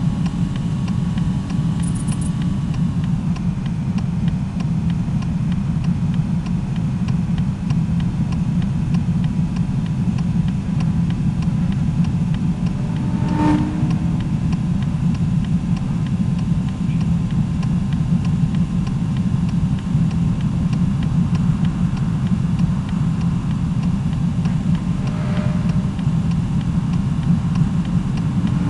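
Steady low rumble of a moving vehicle, with a brief faint click about halfway through.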